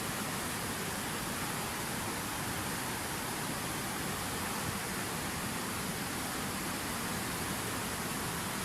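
Water pouring steadily from a fountain waterfall: a constant, even rushing with no breaks or changes.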